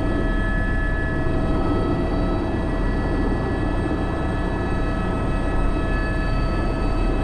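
Airbus H125 (AS350 B3) helicopter in flight, heard from the cockpit: the single turboshaft engine and gearbox whine in several steady high tones over a constant rotor rumble.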